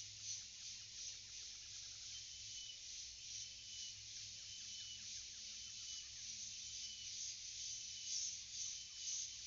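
Forest ambience: a dense, pulsing chorus of insects fills the high range, with a short, high bird-like note repeating about every two-thirds of a second over it.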